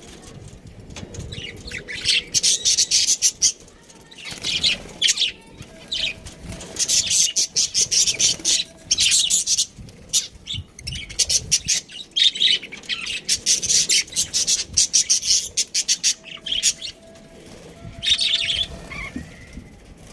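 Pet budgerigar chirping and chattering in rapid high runs of a second or two, with short pauses between them.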